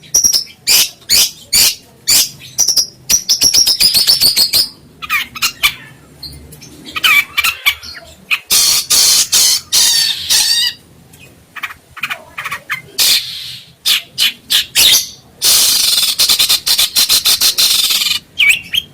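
Songbird singing loudly: fast strings of sharp, high chirps and trills, with a few short pauses between phrases.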